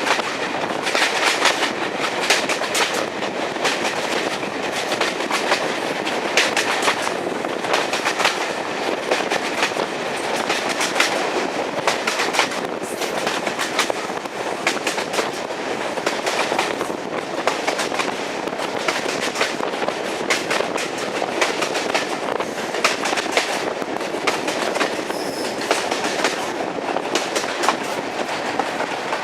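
Train running on jointed track: a steady rumbling run with a continuous stream of wheel clicks over the rail joints.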